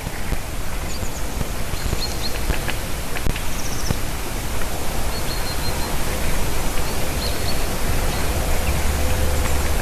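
Steady wind noise on the microphone, with a low rumble that swells near the end. Over it come several short, high chirps of small birds.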